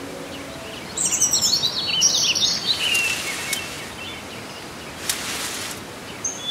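Songbirds chirping and twittering: a quick flurry of high, gliding chirps about a second in that lasts roughly two seconds, then a few single chirps and a short high whistle near the end, over a faint steady hiss.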